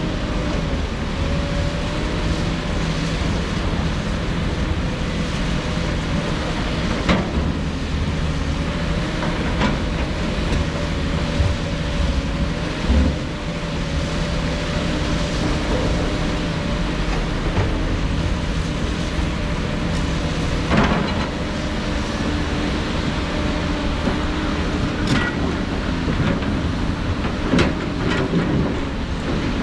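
Diesel engines of heavy earthmoving machinery running steadily, with several sharp knocks and clanks scattered through, one cluster of them near the end.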